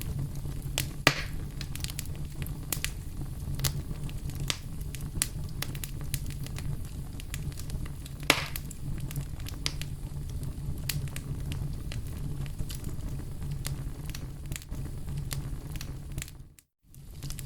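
Campfire crackling: a steady low rush from the burning wood with scattered sharp pops and snaps. Two louder pops come about a second in and about eight seconds in, and the sound cuts out for a moment near the end.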